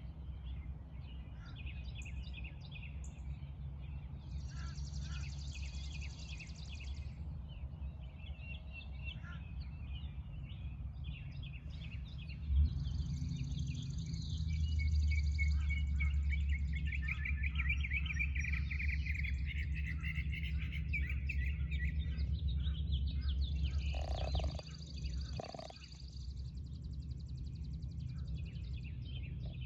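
Several birds chirping and trilling, their calls overlapping, over a steady low rumble. The rumble jumps louder after a sharp knock about halfway through and drops back near the end.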